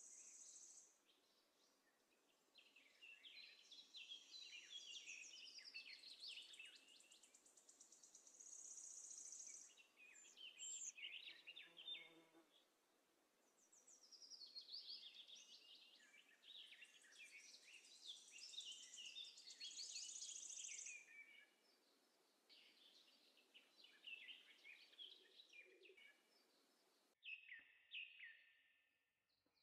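Faint chirping and twittering of small birds: runs of quick high chirps lasting a few seconds each, with short lulls between. The sound cuts out abruptly near the end, then resumes briefly.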